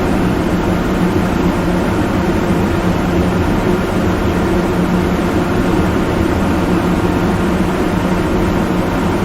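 A loud, steady droning noise with a strong low hum and rumble, unchanging throughout.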